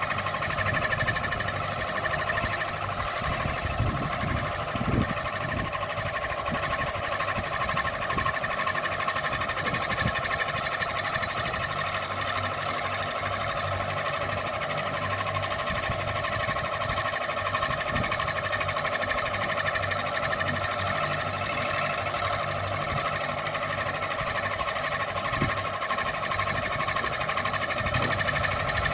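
Ceiling fan running steadily, a whine of several held tones over a low hum, with a few soft low thumps along the way.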